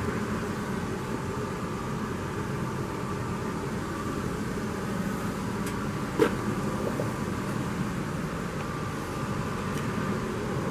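Steady hum of a running truck with its air conditioning blowing, heard close to the cab. A single sharp click about six seconds in.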